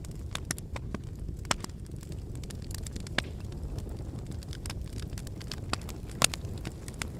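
Fire burning in a fireplace, crackling: a steady low rumble with irregular sharp pops, the loudest pop about six seconds in.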